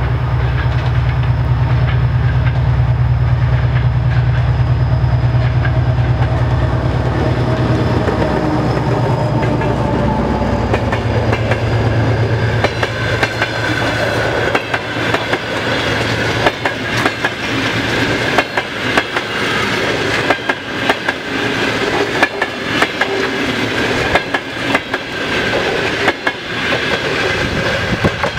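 3TE10M three-section diesel locomotive running past at speed, its diesel engines giving a heavy low drone that drops in pitch as it passes. Its passenger coaches then roll by with a fast, continuous clickety-clack of wheels over the rail joints and a high ringing tone from the running gear.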